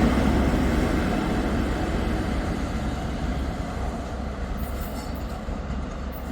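Diesel train running through the station, a low rumble that fades steadily as it moves away.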